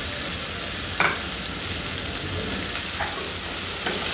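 Chopped onions, garlic, ginger and green chillies sizzling steadily in hot oil in a metal kadai. A few sharp clinks of a steel spoon against the pan come about a second in and again near the end, as stirring begins.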